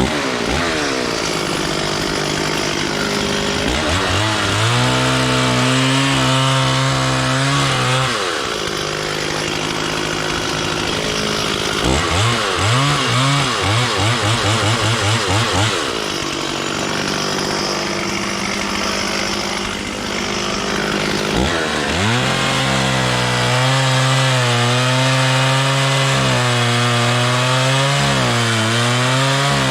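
Stihl 440 two-stroke chainsaw cutting wood in several passes. Its engine pitch drops and holds lower each time the chain bites into the log, and rises again between cuts. In the middle there is a stretch of rapid, even pulsing.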